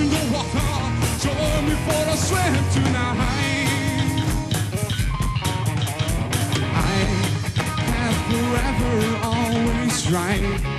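Rock band playing live: electric guitar and drums with a wavering lead melody line over them.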